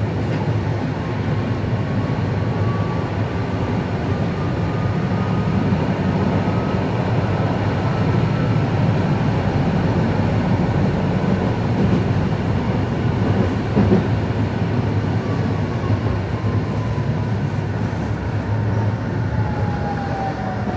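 Steady rumble of an electric city-transit vehicle in motion, heard from on board, with a thin motor whine gliding up and down in pitch at the start and again near the end.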